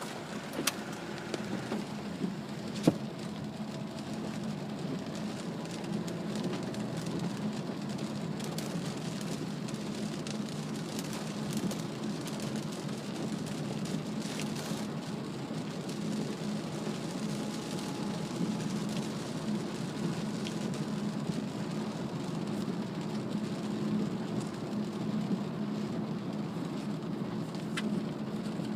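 Cabin noise of a Mazda CX-3 diesel at highway speed in heavy rain: steady tyre, road and engine noise with rain and spray on the body. A few sharp clicks come near the start and near the end.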